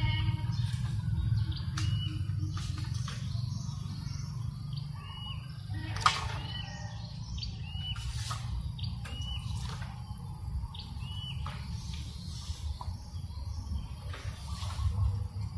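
Small birds chirping, a short hooked note repeated about once a second, over a steady low rumble of breeze on the microphone. A sharp click about six seconds in.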